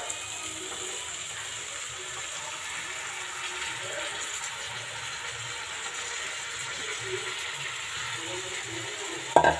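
Tomato-onion masala sizzling steadily in hot oil in a kadhai as cauliflower, peas and potato pieces are tipped in on top. A single sharp knock comes near the end.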